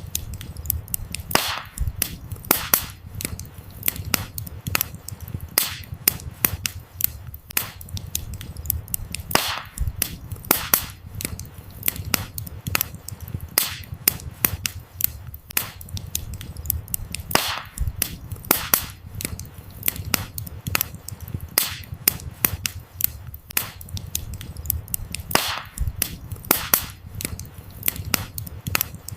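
Burning firewood crackling and popping continuously over a low steady rumble of flames, with a louder snap every eight seconds or so.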